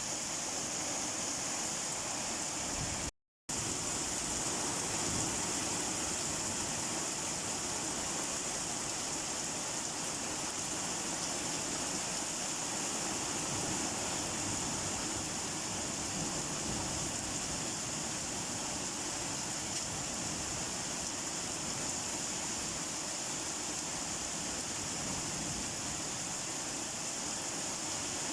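Steady, even rain, with a brief cut to silence about three seconds in.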